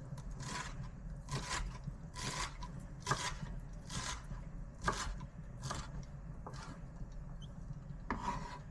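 Kitchen food preparation: a run of short scraping or rubbing strokes, about one a second, on a wooden board.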